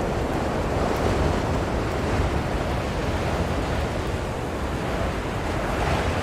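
Blizzard wind blowing steadily: a dense rushing noise with a deep low rumble that swells slightly near the end.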